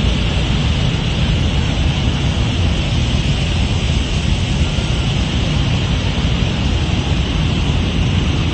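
Rushing floodwater: a steady, loud wash of noise from a torrent in flood, with a heavy low rumble underneath.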